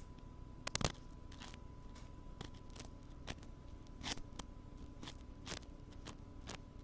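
Ear-cleaning ASMR tool worked against a binaural microphone's ear: irregular short scratchy clicks and scrapes, a loud cluster just under a second in and scattered ones after, over a faint steady background hum.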